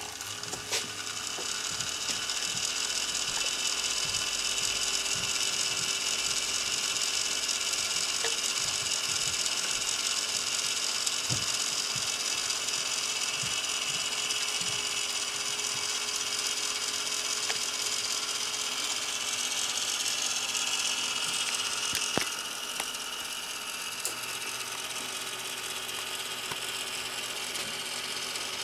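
Gear mechanism of a handcrafted wooden model attack helicopter running steadily, starting about a second in after a click. A sharp click comes near the last quarter, after which it runs a little quieter.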